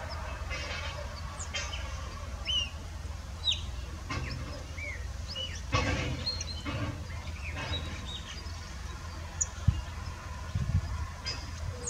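Small birds chirping in short, scattered calls, some rising and some falling in pitch, over a steady low rumble.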